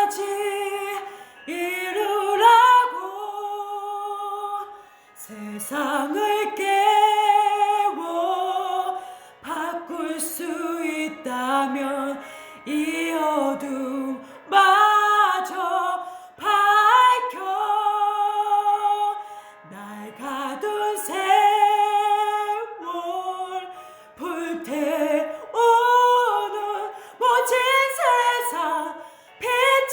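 A woman singing solo without accompaniment, in phrases of held and gliding notes with short breaks between them.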